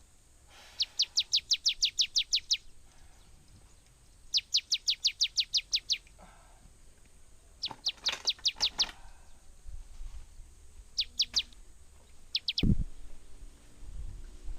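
A songbird calling in rapid runs of high, downward-sweeping notes, about seven a second: two long runs of nearly two seconds each, then several shorter bursts. A low thump comes near the end.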